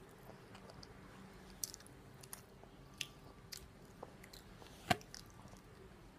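A person chewing quietly and handling a plastic drink bottle, with a handful of sharp clicks and taps, the loudest about five seconds in.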